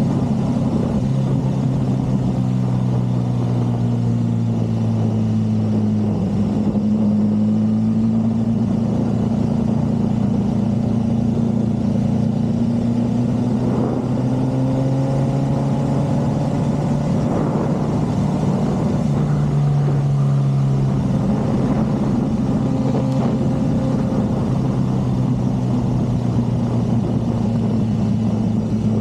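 Motorcycle engine running at low road speed, its pitch rising and falling gently as the throttle eases on and off.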